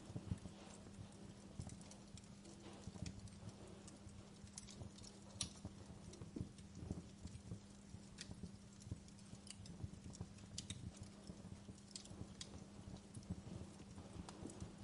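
Wood fire crackling in a fireplace: faint, irregular pops and snaps scattered throughout, over a low rumble and a steady low hum.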